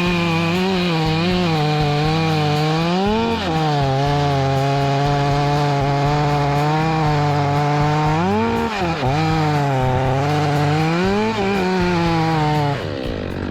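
Stihl MS500i fuel-injected two-stroke chainsaw cutting through wood, its engine note held down under load and rising briefly three times as the cut eases. The engine sound falls away shortly before the end.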